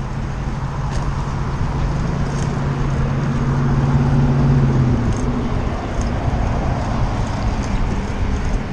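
Wind and road noise on a bike-mounted action camera while riding. A vehicle's steady low hum grows louder and stops about five seconds in, with faint ticks about once a second.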